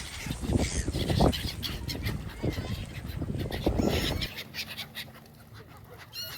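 Waterfowl calling, with short irregular calls scattered through. A low rumble underneath stops about two-thirds of the way in.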